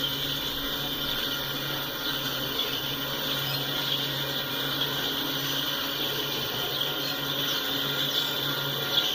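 Union Pacific freight train running by with a steady rumble and low hum.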